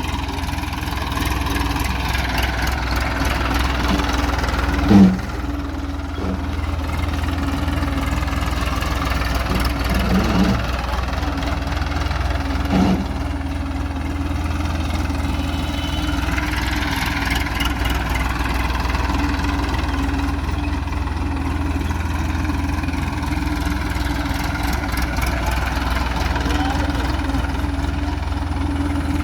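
Tractor diesel engine running steadily under load, with a sudden loud bang about five seconds in and two smaller knocks around ten and thirteen seconds.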